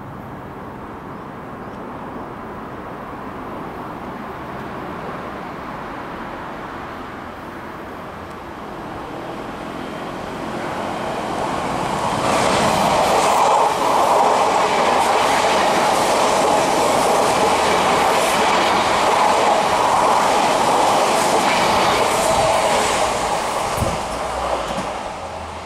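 Odakyu 5000 series electric train passing through a station at speed without stopping. Its running noise builds steadily as it approaches, then turns loud and steady from about twelve seconds in, with repeated clicks of wheels over rail joints, and eases slightly near the end as it pulls away.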